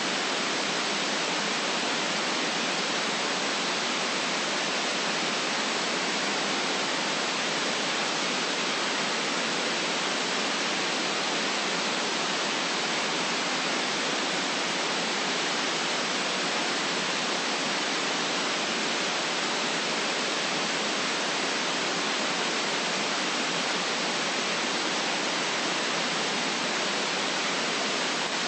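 Steady electronically generated white noise: an even, unchanging hiss, bright in the upper range and thin in the bass.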